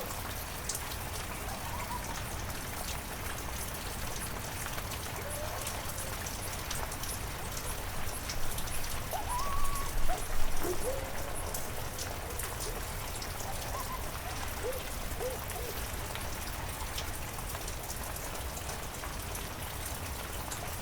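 Heavy rain falling steadily, with many sharp drops ticking on nearby surfaces. A few short pitched animal calls sound over it, loudest about eight to eleven seconds in.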